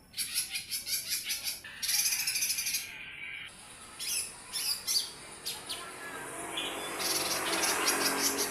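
A mini cucak ijo (green leafbird) singing its rapid 'nembak' song. The song comes in fast trilled bursts and sharp repeated high notes, breaking into separate calls midway and then into a long dense phrase near the end.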